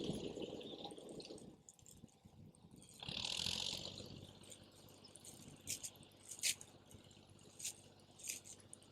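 Wood campfire crackling, with a handful of sharp pops in the second half; a low rumble at the start and a brief hiss about three seconds in, from the fire and the wind.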